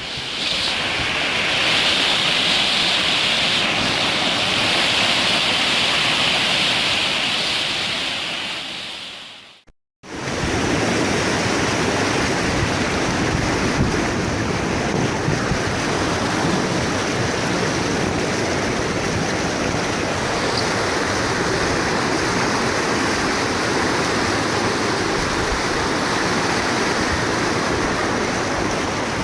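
Floodwater rushing down a swollen stream, a steady loud rush of water. It cuts out for a moment about ten seconds in and resumes with a deeper, fuller sound.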